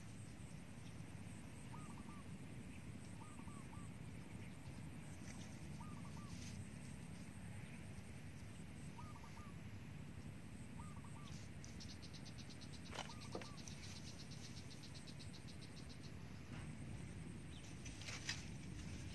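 Quiet outdoor ambience with a low rumble, and a bird repeating a short two- or three-note call every couple of seconds. Two faint sharp knocks come about two-thirds of the way in, and a fast high ticking runs for a few seconds around the same time.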